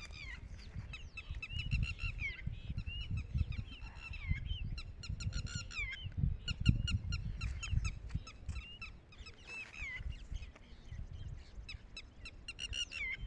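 Lapwing calling repeatedly: a series of shrill, sharply pitched calls, several dropping in pitch at the end, over a steady low rumble.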